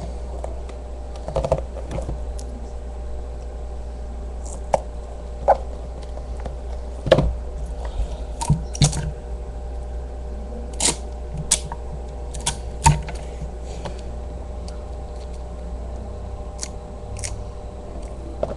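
Packaging being handled as a diecast model airliner is packed back into its box: scattered light clicks and knocks of plastic and cardboard, a few sharper ones, over a steady low hum.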